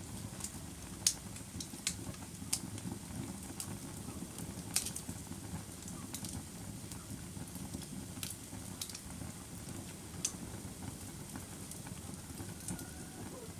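Wood fire burning, a steady low rumble of flames with irregular sharp crackles and pops from the burning logs.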